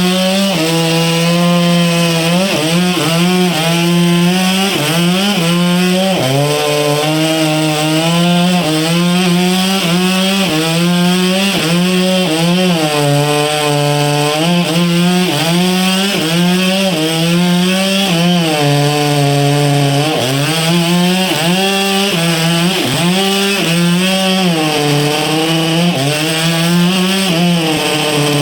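Chainsaw running at full throttle and cutting into a large log. Its pitch repeatedly sags as the chain bites into the wood, then climbs back.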